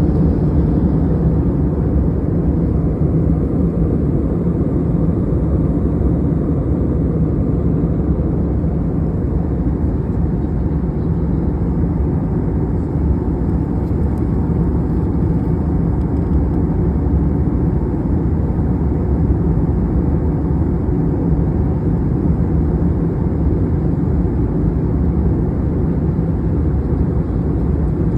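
Airliner cabin noise in flight: a steady low drone of engines and airflow heard from inside the cabin, unchanging throughout.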